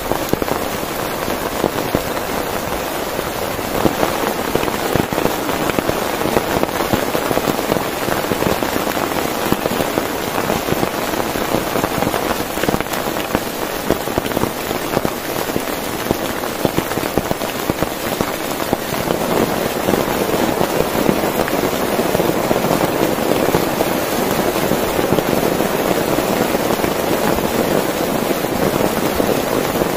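Heavy rain pelting steadily on a tent, a dense, even pattering of drops.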